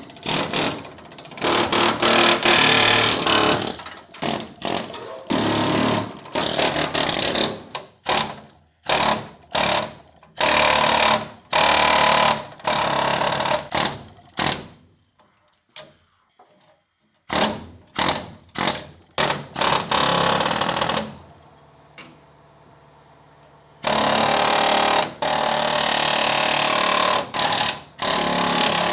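MIG welder crackling in stop-start bursts of a fraction of a second to a few seconds, the tack and stitch welds of joining steel sill panels, with a faint steady hum in the pauses.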